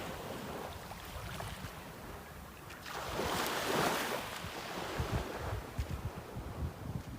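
Sea waves washing in, with one wave swelling louder about three seconds in, and wind buffeting the microphone in low thumps in the second half.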